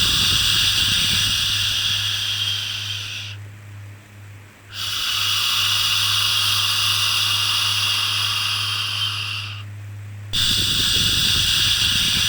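Rhythmic 'shhh' shushing for soothing a baby: long, drawn-out shushes of about five seconds each, each fading slightly before a brief pause about three and a half seconds in and again about ten seconds in. A steady low hum runs underneath.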